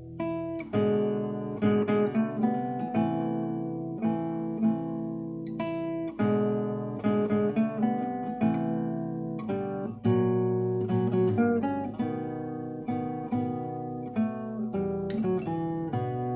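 Seven-string acoustic guitar playing a slow, lyrical piece solo: a steady run of plucked notes over sustained bass notes, each note ringing on after its attack.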